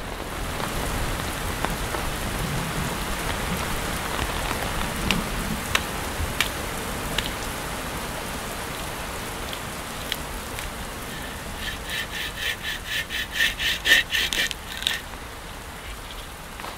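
Steady rain falling, with the odd sharp drip. About twelve seconds in, a hand saw cuts through wood in quick even strokes, three or four a second, for about three seconds.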